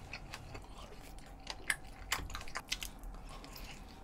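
Close-miked chewing of a mouthful of tteokbokki rice cake, with irregular wet mouth clicks and smacks.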